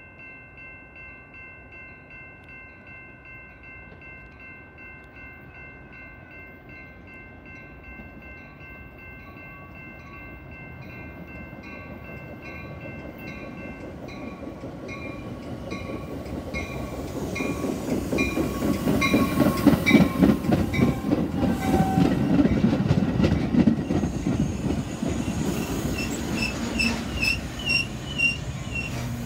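Metra diesel commuter train approaching and passing through the station: a long held horn chord and a pulsing crossing bell for the first half, then a rising rumble and rapid clatter of wheels over the rails as the locomotive and bi-level cars go by, loudest a little past the middle.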